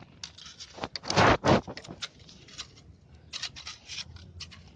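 A screwdriver scraping caked dirt and grime out of a motorcycle's front sprocket area, in a run of short, irregular scrapes with the loudest strokes just over a second in.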